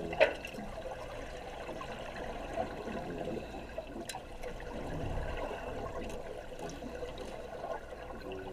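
Water bubbling and churning in a diving tank, with a few sharp clicks, one about a quarter second in and another about four seconds in.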